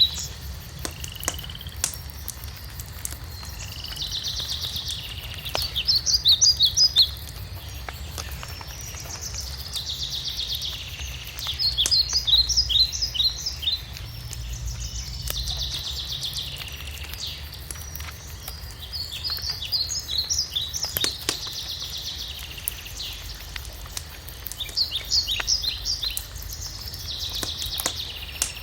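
A songbird singing the same short phrase over and over, about every six seconds: a dense trill followed by a quick run of separate bright notes. Under it a wood fire crackles with scattered sharp pops.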